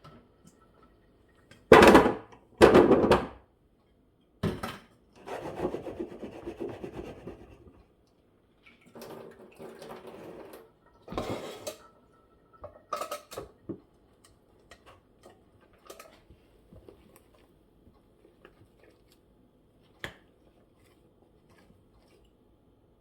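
Kitchen handling sounds: dishes and utensils knocked and scraped. Two loud clatters come about two and three seconds in, followed by stretches of scraping and scattered light knocks that thin out over the second half.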